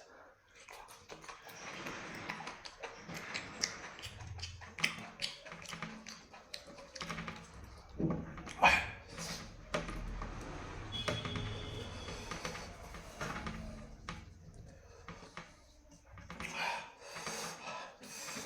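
Close-up eating sounds: a person chewing and smacking their lips over a meal of rice with fried dry chillies and curry, with irregular sharp clicks and crunches.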